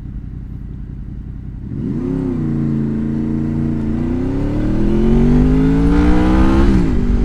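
Honda VFR800's V4 engine accelerating hard: the revs rise about two seconds in, then climb steadily for nearly three seconds into the VTEC range before dropping sharply at an upshift near the end.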